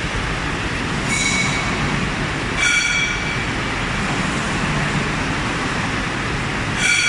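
Factory floor machinery running with a steady din and low hum, cut by three brief high metallic ringing squeals, about a second in, two and a half seconds in and near the end.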